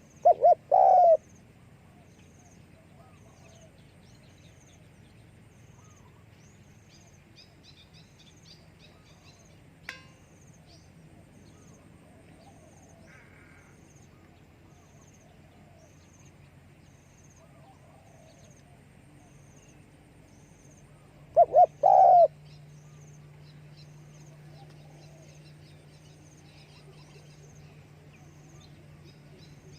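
Spotted dove cooing, two calls about twenty seconds apart, each two short notes followed by a longer one. Faint high chirping from other birds or insects carries on in the background, with a single sharp click about ten seconds in.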